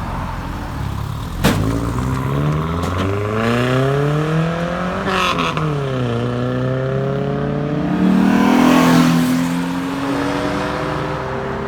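A car engine accelerating away. Its pitch climbs for a few seconds, drops sharply about five seconds in as it changes gear, then holds and climbs again. A sharp click comes about a second and a half in.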